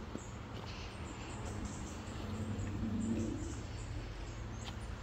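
Birds calling faintly with a few short high chirps, over a steady low outdoor rumble.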